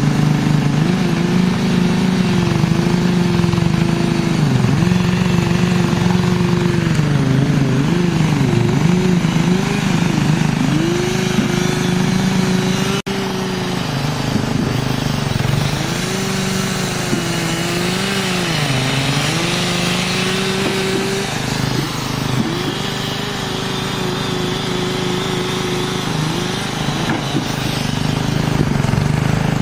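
An engine running at high revs, its pitch sagging and recovering again and again as it takes load and frees up. There is a sudden break about halfway through, after which it carries on a little quieter.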